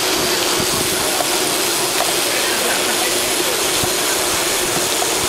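Steady rushing hiss of wind and road noise on a camera moving with a bicycle ride, even and unbroken throughout.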